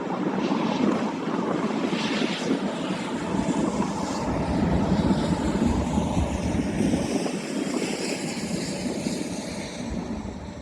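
A pair of Class 69 diesel-electric locomotives, with EMD 710 engines, passing with a railhead treatment train. The heavy engine drone and wheel noise build to a peak about halfway through, then fade away.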